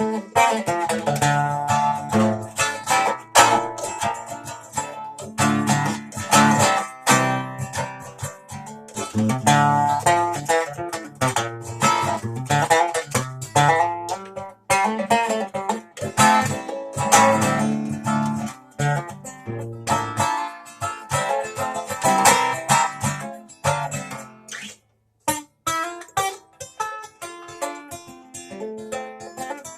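Instrumental music on a strummed string instrument, chords struck in a steady run, with a brief pause about 25 seconds in.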